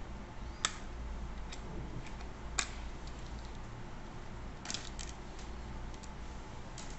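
About five sharp small clicks and taps, spaced a second or two apart, as the plastic parts of a metal detector are handled. A steady low hum runs under them.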